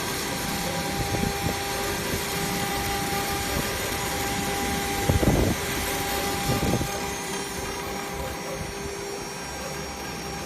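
CNC engraving machine's spindle running steadily with a whine over a broad hiss, with two brief louder bursts about five and six and a half seconds in.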